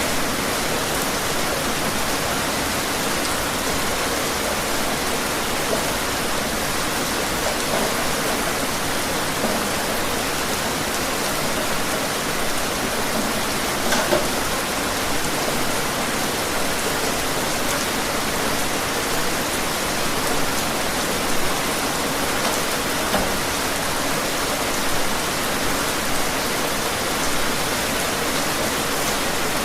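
Steady rain falling outside, an even hiss with a few louder drops landing now and then, one of them about halfway through.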